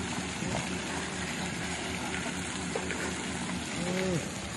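Garbage truck's engine running steadily. A brief voice-like call rises and falls about four seconds in.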